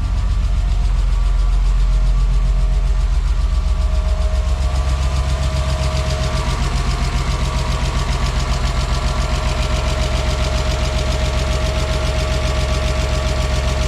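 BMW M50B20TU 2.0-litre inline-six idling steadily, just restarted after standing dry for about two years, with an uneven running sound that the owner calls kind of a bad sound. About five seconds in the sound fills out, with a steady whine joining the engine note.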